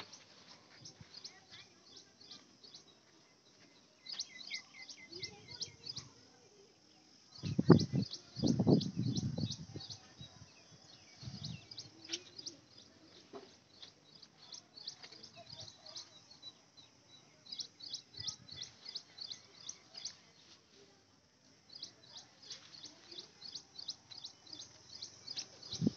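Small birds chirping: repeated runs of quick, high, thin chirps. About eight seconds in, a louder low-pitched sound lasts about two seconds.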